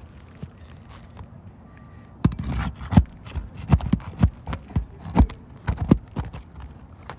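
A dozen or so irregular knocks from a hand tool working at a roof shingle to get it off, starting about two seconds in and stopping about six seconds in.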